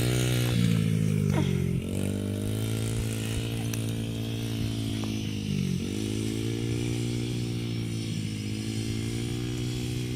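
Dirt bike engine running steadily, its pitch dipping and climbing back twice, about two and six seconds in.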